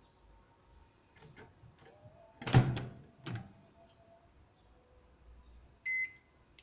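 Microwave oven door handled and shut with a loud knock about two and a half seconds in, a few light clicks before it and a smaller knock just after. Two short keypad beeps near the end as the timer is set.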